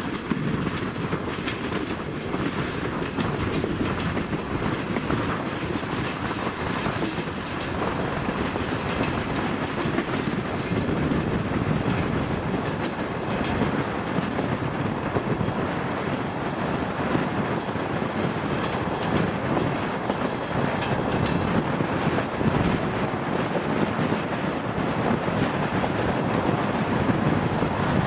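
DR1A diesel multiple unit running at speed: a steady rumble of the train in motion with the clickety-clack of wheels over rail joints.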